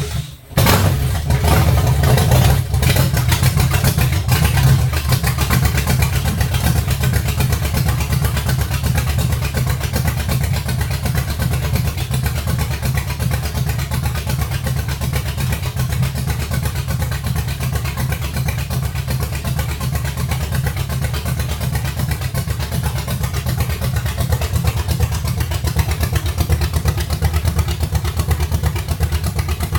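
The buggy's newly installed engine starts, catching just under a second in after a brief drop-out, then runs steadily with a fast, even firing beat.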